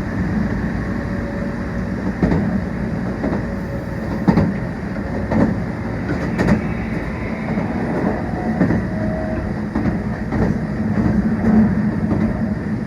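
Meitetsu 1800 series electric train running at speed: a steady low rumble of wheels and running gear, with irregular clicks of the wheels passing over rail joints.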